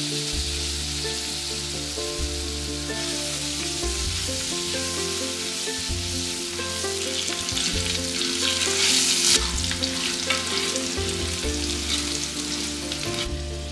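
Potato chunks sizzling as they fry in mustard oil in a pan, being stirred and turned with a spatula. The sizzle swells loudest about eight to nine seconds in.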